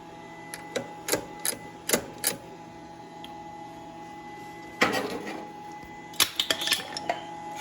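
Scattered metallic clicks and knocks of hand tools and carburetor throttle linkage being worked on a small tractor engine that is not running, with a louder clatter a little past the middle, over a faint steady hum.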